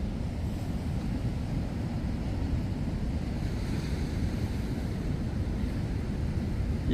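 Big surf breaking and wind buffeting the microphone: a steady rushing noise, heaviest in the low end.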